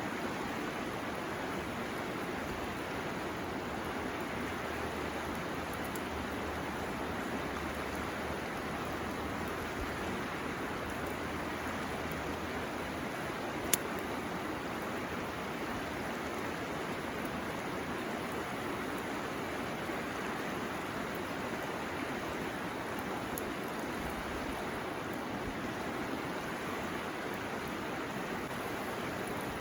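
River flowing: a steady rushing of water, with one sharp click about halfway through.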